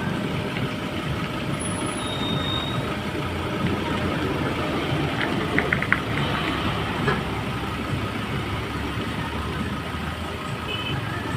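A vehicle engine idling steadily, with a few light clicks about five to seven seconds in.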